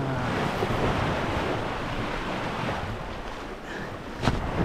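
Water rushing past a sailboat's hull under sail, with wind on the microphone; a sharp click near the end.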